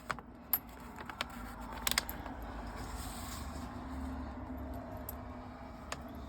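Light metallic clicks and clinks of sofa bolts and fittings being handled for bolting on, several in quick succession in the first two seconds and one more near the end, over a steady low hum.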